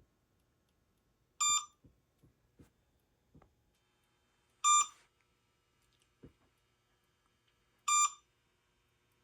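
An RC radio's electronic alert beeping: three short, identical beeps, about three seconds apart. It is the alarm that sounds when the radio gear has been left switched on for a while. A few faint clicks of handling come between the beeps.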